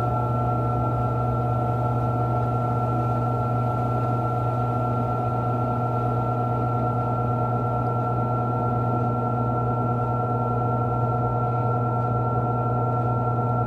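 Panasonic 14 kg washing machine spinning at speed: a steady motor hum with a constant whine over it. It is running smoothly and evenly, without shaking.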